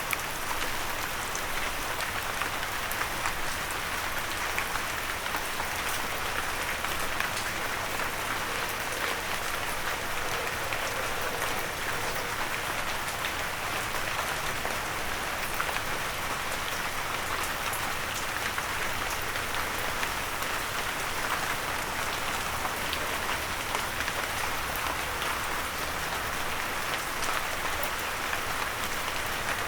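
Steady rain with many sharp individual drops pattering on a windowsill.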